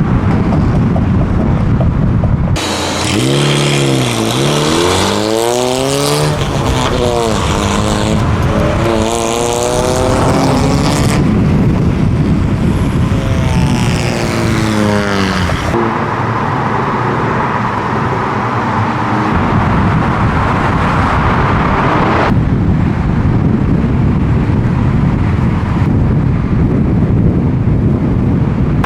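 Modified car engines revving hard and accelerating, the engine note repeatedly climbing and dropping back. The sound changes abruptly several times, and the last part is a steady rush of driving noise.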